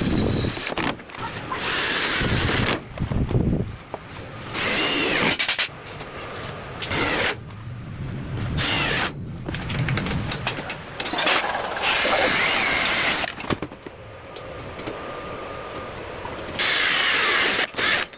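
Handheld power tool run in short bursts of one to two seconds, about seven times, with its pitch shifting as it bears on the work.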